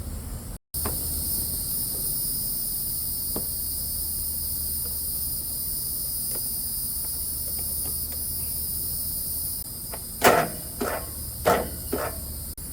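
Steady high-pitched chirring of an evening insect chorus, cut off briefly by a dropout near the start. About ten seconds in come a few sharp knocks and clatters of something hard being handled.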